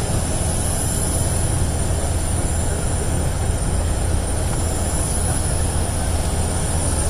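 Steady, loud vehicle or engine rumble with a thin high whine above it.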